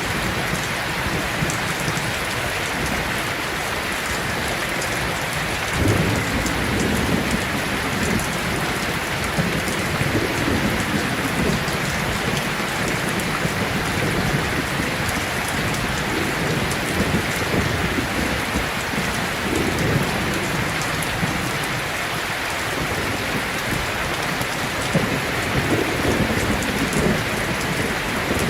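Heavy rain falling steadily, with low rolls of thunder rumbling in and fading several times.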